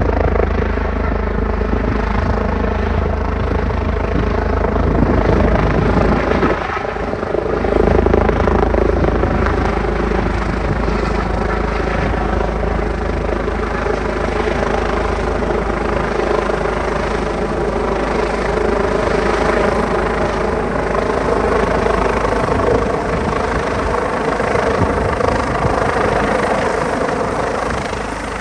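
Airbus EC145T2 helicopter running close by: a steady rotor and twin-turbine sound with sustained tones. It dips briefly about seven seconds in and comes back a little louder.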